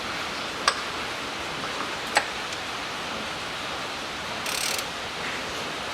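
Hand tool turning the crankshaft of a Ford Ranger 2.5 turbodiesel with the cylinder head removed: two sharp metallic clicks and a short scrape over a steady hiss.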